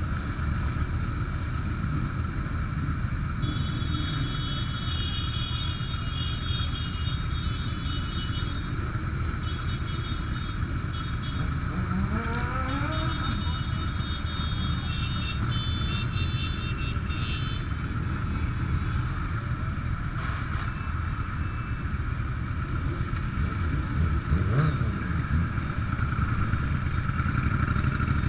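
Motorcycle engines running steadily in a group ride, with one engine revving up in rising pitch about twelve seconds in and again near the end.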